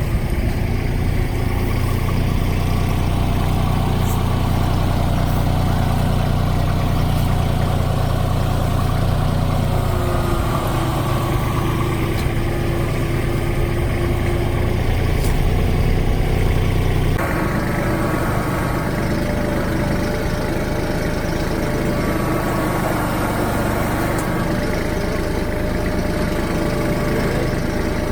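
An engine running steadily at a low, even pitch; about seventeen seconds in, the sound changes abruptly to a different steady engine note.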